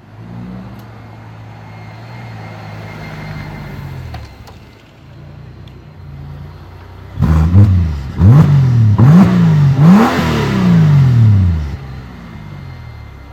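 A Mercedes G-Wagon AMG engine running low and steady, then about seven seconds in it is revved hard four times in quick succession, each rev rising and falling back, the last one winding down more slowly.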